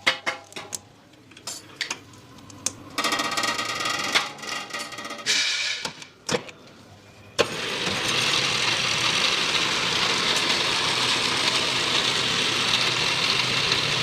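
Factory machinery: scattered metal clicks and knocks, then a pitched machine whine, then about seven seconds in a steady loud hiss sets in abruptly and holds.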